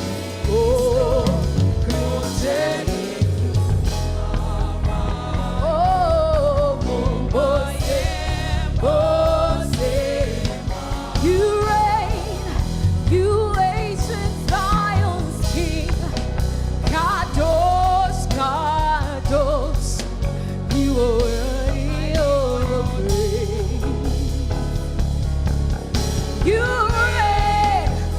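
Live gospel worship music: a lead singer and backing vocals over a full band with a steady bass and drums.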